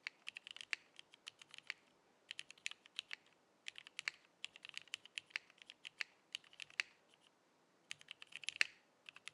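Typing on a mechanical keyboard with vintage Cherry MX Black linear switches, a polycarbonate plate and GMK doubleshot ABS keycaps: bursts of quick keystrokes with short pauses, and a dense flurry near the end.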